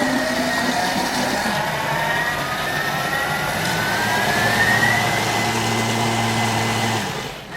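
Blender running at high speed, puréeing cooked rice into a smooth cream. Its whine climbs steadily in pitch, then the motor cuts off suddenly near the end.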